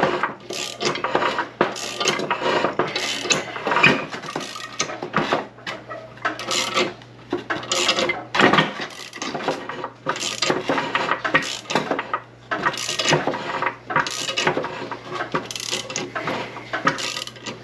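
Irregular metal clanking and knocking, a sharp strike every half second to a second, as tools force a stuck bearing off a Chevrolet SM465 transmission shaft.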